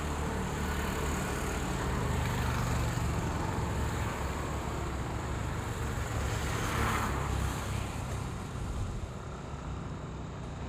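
Steady low rumble of engine noise with a hiss over it, swelling briefly about seven seconds in and easing off a little near the end.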